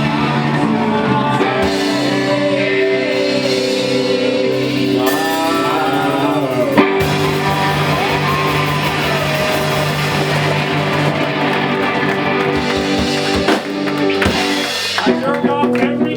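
Live rock band playing electric guitar, bass and drums with a singing voice over held, gliding notes; a sharp hit about seven seconds in. Near the end the music drops back and a voice talks.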